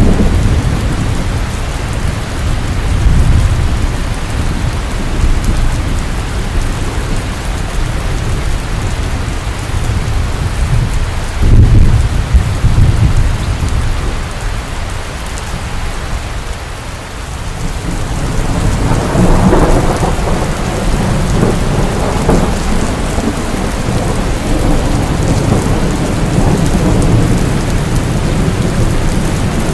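Steady rain falling, with low rolling rumbles of thunder, the strongest about twelve seconds in, and the rain growing heavier in the second half.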